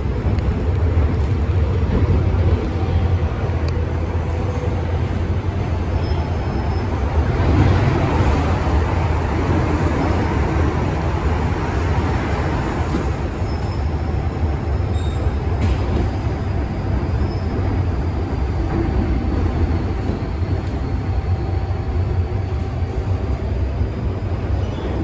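MTR M-Train electric multiple unit running along the track, heard from inside the car: a steady low rumble of wheels and traction equipment that swells for a few seconds about a third of the way in, with faint steady whining tones over it.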